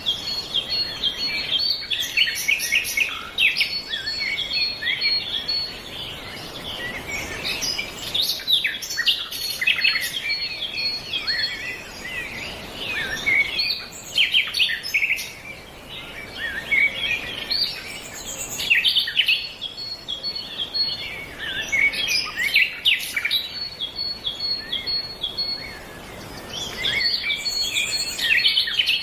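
Chorus of several songbirds singing and chirping continuously, with many overlapping calls and a rapid, evenly repeated high note recurring at intervals.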